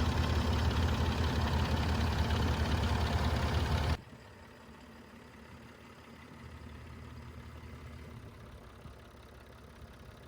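Skid steer engine running steadily and loudly. It drops suddenly about four seconds in to a faint, low engine hum.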